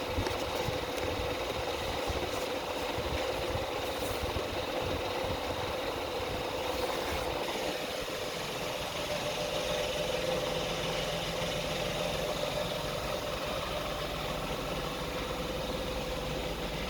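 An engine or motor running steadily, with a constant hum and low rumble.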